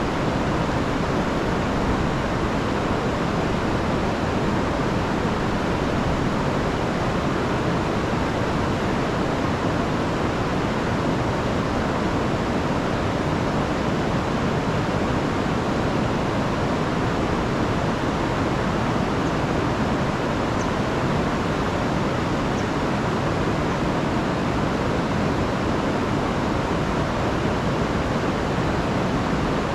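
Rain-swollen river rushing over falls: a steady, loud roar of water.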